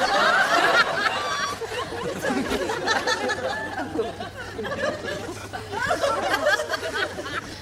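Party crowd chatter: several people talking over one another, with bursts of laughter.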